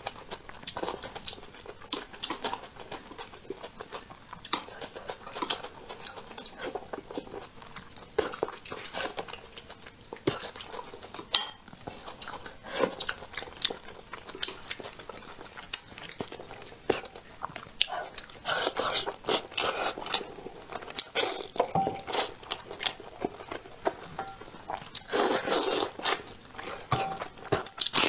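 Close-miked eating sounds: a person chewing and biting braised crucian carp in spicy sauce, with many irregular wet clicks and smacks. Two louder, noisier stretches come partway through and near the end.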